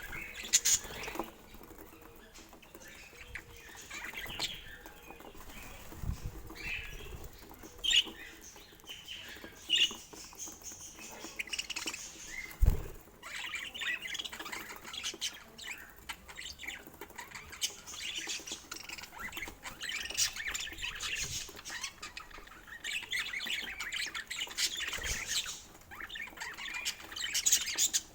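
Budgerigars chirping and chattering on and off, with scattered small clicks and taps and one sharp thump about halfway through.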